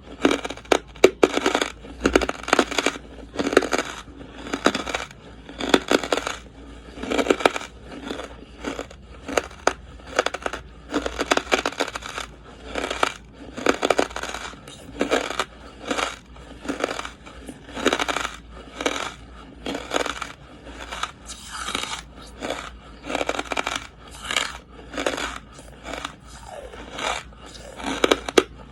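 Someone biting and chewing charcoal, with dry crackly crunches about once a second.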